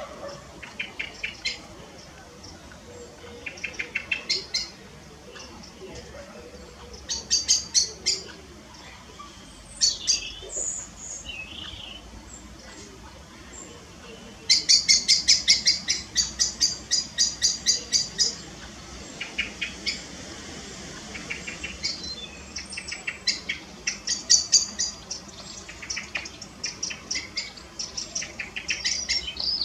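Garden birds calling: repeated quick series of short, high chirps, with a few brief whistled notes about a third of the way through. The longest and loudest series comes about halfway through.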